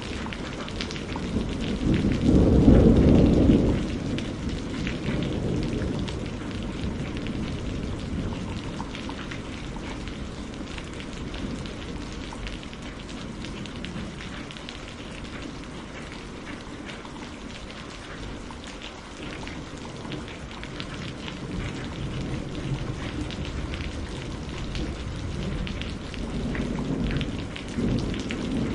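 Steady rainfall with a dense patter of drops. A loud low thunder rumble swells about two seconds in and fades over the next few seconds, and a fainter rumble returns near the end.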